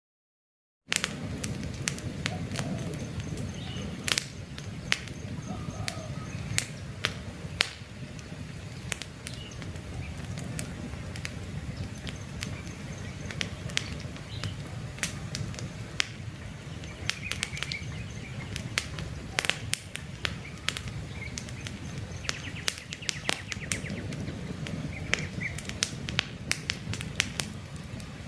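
Wood campfire crackling, with frequent sharp pops over a low, steady rumble of burning. Faint bird chirps come through now and then. The sound cuts in after a moment of silence at the very start.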